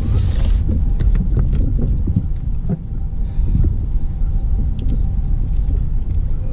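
Wind buffeting the microphone: a steady low rumbling noise, with a few faint knocks scattered through it.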